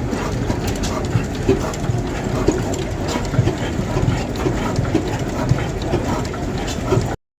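A vintage engine running, with a dull low beat about once a second over a steady mechanical noise; the sound drops out for a moment near the end.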